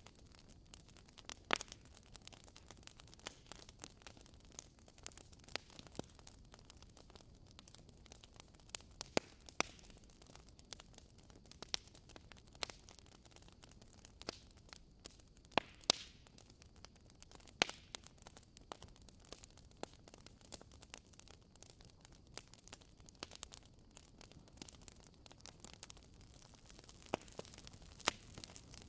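Wood fire crackling in a fireplace: irregular sharp pops and snaps of burning logs, a handful of louder ones scattered through, over a faint steady hiss.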